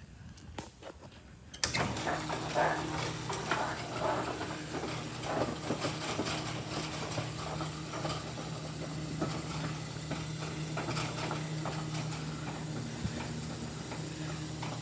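Overhead Door RSX commercial door opener, driven by a V-belt and chain, starting with a clunk about two seconds in and then running with a steady motor hum while the overhead door rises, with rattling and clicking from the door and drive.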